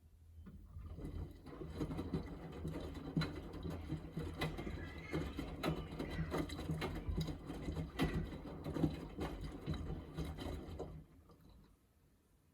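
Miele W3985 front-loading washing machine drum turning during a rinse, with a low motor hum and irregular knocks and sloshing of wet laundry and water tumbling inside the drum. The turn starts about half a second in and stops about a second and a half before the end, as the drum pauses between rotations.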